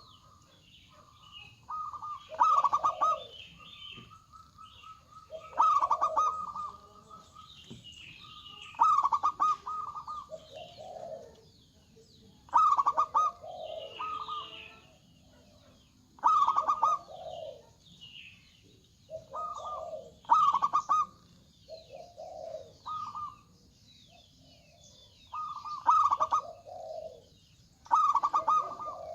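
Zebra doves (perkutut) cooing in repeated phrases, one about every three to four seconds, each a higher note answered by a lower one. Faint higher chirps come in between the phrases.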